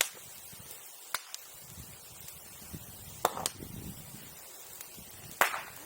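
Bamboo and wood popping in a bonfire: about five sharp, irregular cracks, the loudest two near the middle and near the end, over low crackling and rustling.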